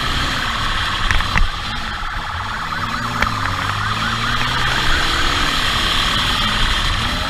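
Police siren going in a fast up-and-down pattern over a vehicle engine that revs up and down.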